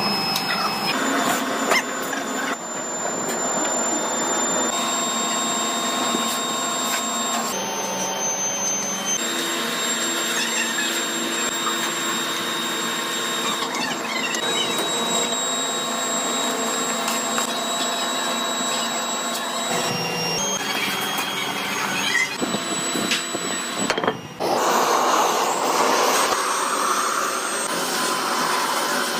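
Factory machinery in heavy-truck wheel production running with a steady motor whine and hum. The pitch and character change abruptly every few seconds as the shots cut.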